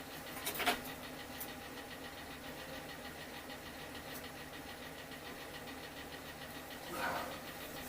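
A steady low motor hum in the background, with a few light clicks about half a second in and a short rustling clatter near the end.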